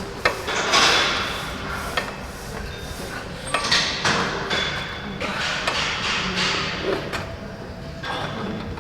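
A few sharp metallic clanks and knocks of gym weight equipment over a busy gym background, with a few louder rushes of noise about a second in, around four seconds and after six seconds.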